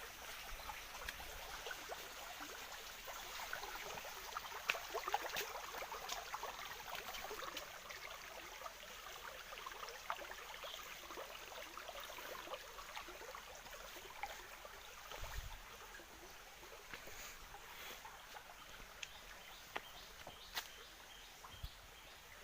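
Faint burble of a small stream running over stones, a steady hiss scattered with small irregular splashes and clicks.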